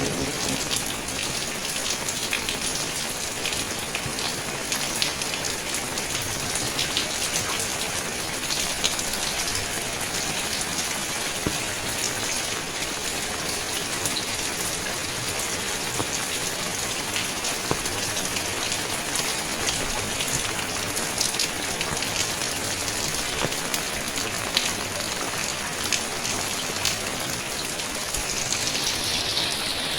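Steady rain falling on surfaces, with many scattered sharp ticks of individual drops.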